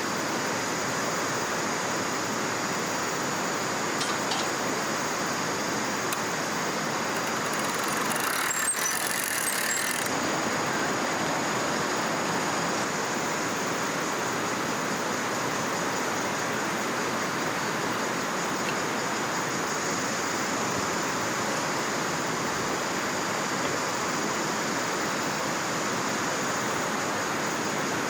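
Steady rushing of flowing river water, even and unbroken, with a faint high steady tone above it.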